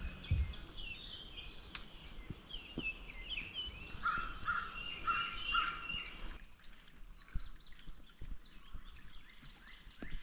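Several wild birds singing and calling, with short high chirps throughout and a run of four repeated lower notes about halfway through.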